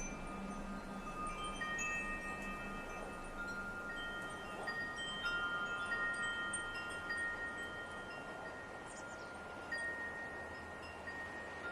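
Metal wind chimes ringing, several long tones overlapping and fading slowly, over a steady soft hiss.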